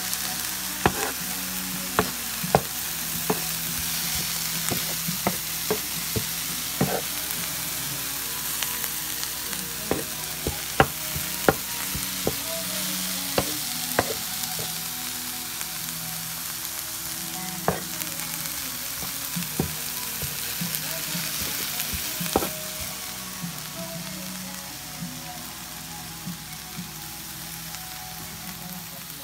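Vegetables (zucchini slices, cabbage, broccoli, mushrooms and onion) sizzling in oil on a flat-top griddle: a steady frying hiss with irregular sharp pops and clicks, easing slightly near the end.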